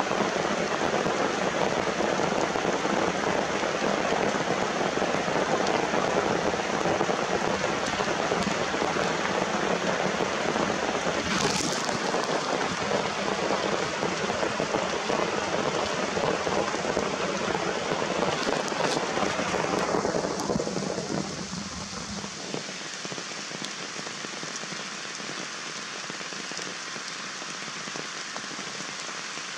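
Steady heavy rain falling and pattering on surfaces, becoming quieter about two-thirds of the way through.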